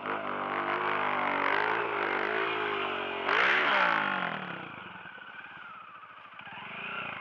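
Dirt bike engine revving, its pitch rising and falling, with a louder rev about three seconds in before it drops away and fades.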